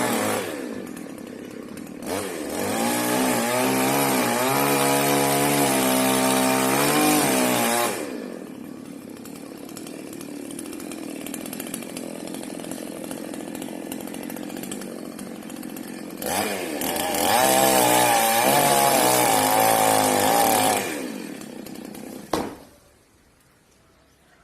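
Chainsaw engine revving in two long bursts with the pitch wavering, dropping back to a lower steady run between them, then shut off near the end.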